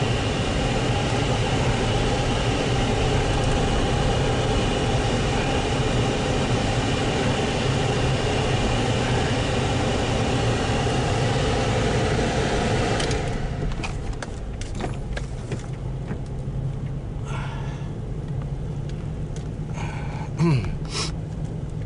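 Car heater/defroster blower fan running loudly over the engine and road noise inside a moving car; about 13 seconds in the blower noise suddenly cuts out, leaving a quieter low engine and tyre rumble with a few light clicks.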